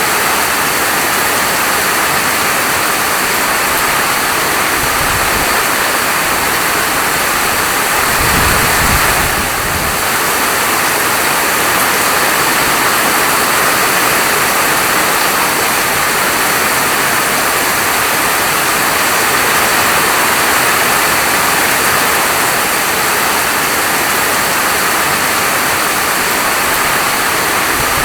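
Heavy rain falling steadily, a dense even hiss, with a brief low rumble about eight seconds in.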